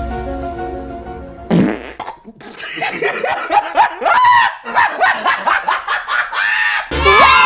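Cartoon sound effects over soft background music: a comic fart-like noise about a second and a half in, then a run of quick, squeaky, rising chirps.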